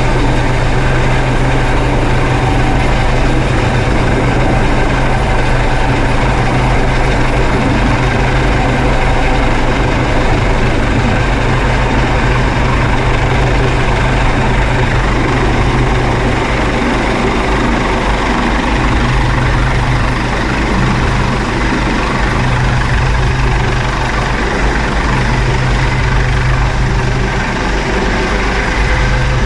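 Helicopter hovering: loud, steady rotor and turbine noise with a deep hum that wavers a little in the second half.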